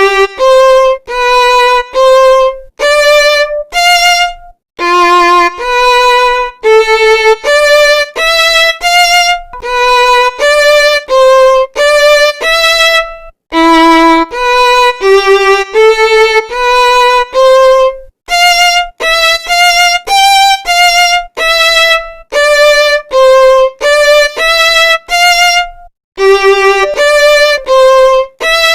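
Background music: a solo violin playing a single-line melody of short, separate notes, about two a second, with brief gaps between them.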